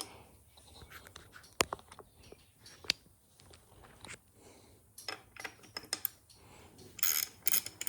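Hand tools working on a small motorcycle engine: scattered light clicks and taps of metal on metal. Near the end comes a quick, even run of ratchet-wrench clicks, about five a second.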